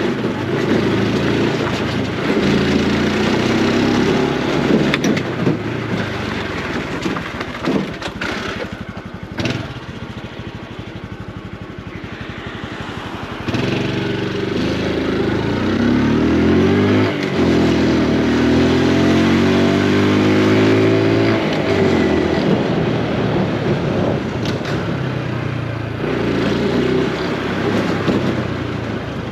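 Honda Super Cub C125's single-cylinder engine running under way, easing off to a quieter stretch about ten seconds in and then pulling up again with a rising pitch.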